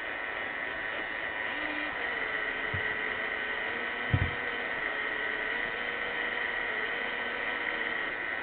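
iRobot Roomba 600-series robot vacuum running, a steady motor whine and hum, with a short knock about four seconds in.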